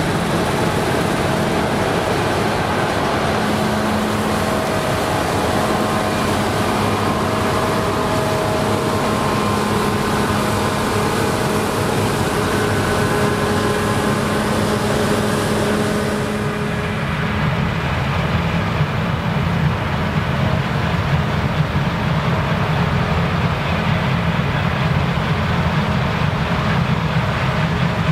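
Claas Lexion combine harvester running while harvesting rye: a steady low engine drone under a broad rushing noise from the machine. About two-thirds of the way through, the high rushing falls away and the low drone comes forward.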